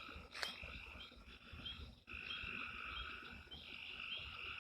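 A chorus of frogs calling: a steady high trill with short chirps repeating over it, dropping out briefly about two seconds in. A single click comes near the start.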